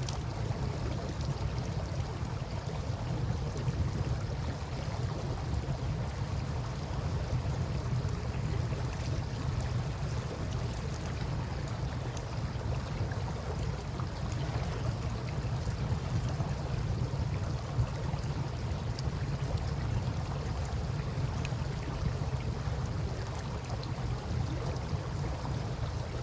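Campfire crackling with small scattered pops over the steady rush of flowing river water, under a constant low rumble.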